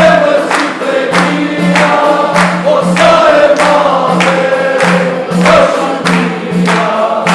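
Albanian folk song sung by a group of voices over a steady drum beat, with a low sustained tone pulsing underneath.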